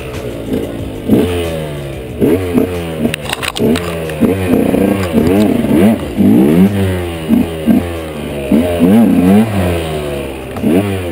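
KTM 125 EXC two-stroke enduro engine revved hard and let drop over and over, the revs rising and falling about once a second, as the bike spins its wheel in mud trying to climb out of a gully. A short clatter of knocks about three seconds in.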